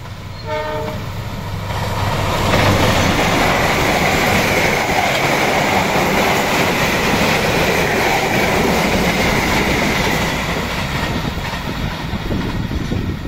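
A diesel locomotive sounds one short horn blast about half a second in, then runs past close by. The rumble of the locomotive gives way to the steady roar and clatter of passenger coaches rolling over the rails.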